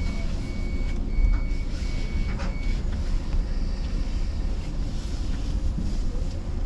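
Low steady rumble and ambience of an electric commuter train standing at a terminal platform, with scattered clicks. A high electronic beep repeats about every 0.7 s and stops a little over two seconds in.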